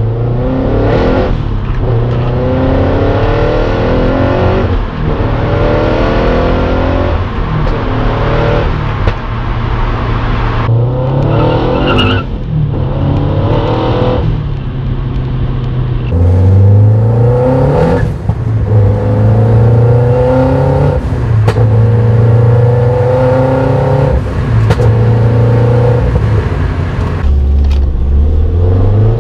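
Toyota GT86's 2.0-litre flat-four engine heard from inside the stripped-out cabin, with no rear seats or boot liner to damp it. The car is driven hard and the engine note climbs and drops back again and again, over constant loud road noise; the speaker calls it ridiculously loud.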